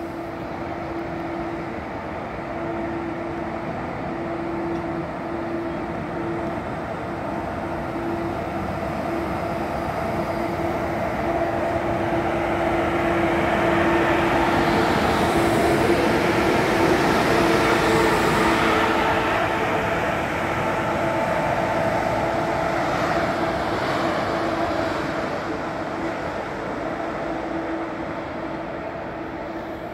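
Deutsche Bahn ICE high-speed train passing along the platform: rolling rail noise over a steady hum. It grows loudest as the end power car goes by about halfway, then fades as the train moves away.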